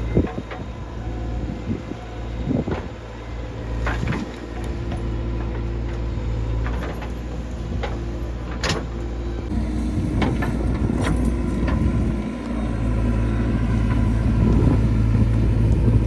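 Diesel engine of a JCB 3DX backhoe loader running steadily while it digs and loads, with a few sharp metallic knocks. The engine grows louder and fuller in the second half.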